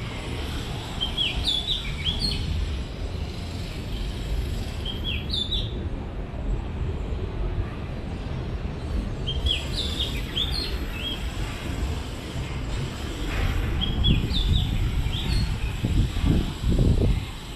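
A songbird giving short bursts of high chirps about every four seconds, over a steady low rumble of background noise that grows louder near the end.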